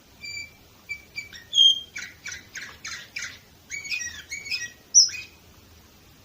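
Canary singing one song phrase. It opens with a few clear whistled notes, moves into a run of quick repeated notes, about four a second, then a warbling passage, and ends on a loud high note about five seconds in.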